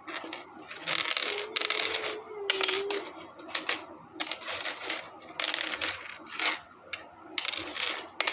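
Small parts of a nut-and-bolt model aircraft kit clinking and rattling in quick, irregular bursts as they are handled and rummaged through while searching for a piece.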